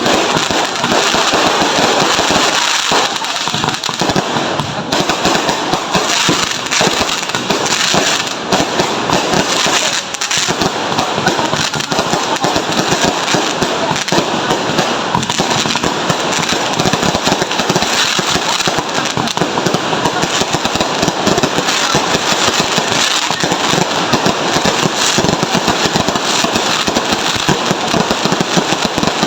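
Fireworks going off in a dense, continuous barrage of rapid crackling pops with no break.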